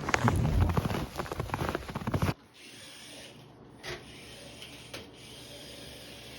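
Rapid scraping strokes of snow and ice being cleared off a car, cutting off abruptly about two seconds in. After that, a faint steady hum with two soft clicks.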